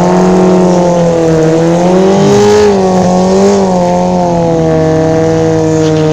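Drag-racing sport motorcycle engines held at high revs on the start line, the pitch wavering and dipping slightly rather than sweeping up in a launch, with a second engine audible alongside.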